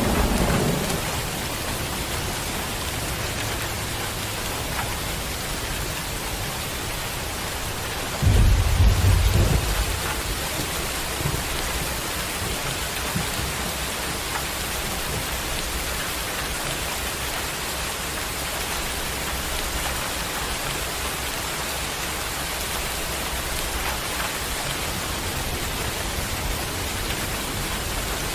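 Heavy rain falling steadily, with a rumble of thunder about eight seconds in and the tail of an earlier rumble dying away at the start.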